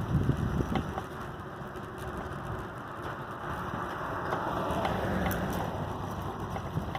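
Wind buffeting the microphone over the low rumble of an adult tricycle rolling on the road, with a few faint clicks.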